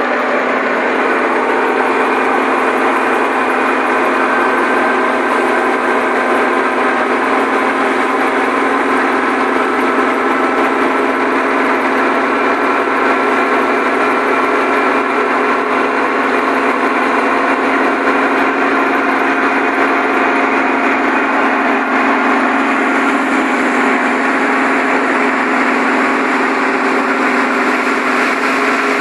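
Wheat thresher driven by a Millat tractor, running steadily with a dense mechanical hum and whir.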